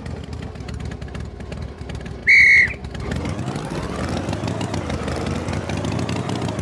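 A vehicle engine runs steadily. A little over two seconds in, a short, loud, high whistle cuts in, and after it the engine's pitch rises and falls.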